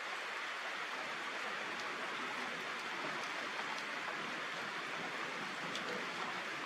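Steady rain falling: an even hiss, with a few faint drop ticks now and then.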